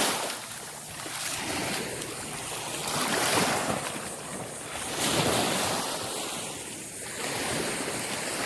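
Gulf surf washing onto the beach, the noise of the waves swelling and falling back in surges every couple of seconds.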